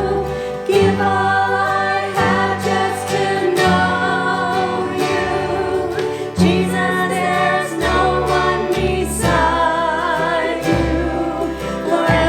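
Gospel singing: several voices in harmony over instrumental accompaniment with a bass line.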